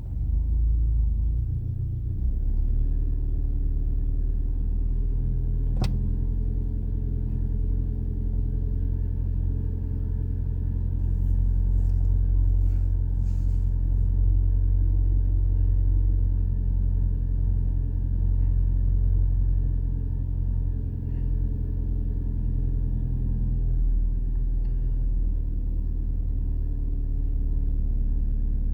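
The 1.8-litre twin-cam inline-four of a 1997 Mazda 323 180SE idling steadily on a cold start, with one short click about six seconds in.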